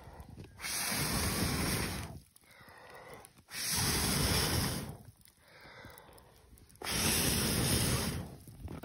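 A person blowing hard on a fire of damp wood to get it burning: three long blows of about a second and a half each, with quieter breaths drawn in between.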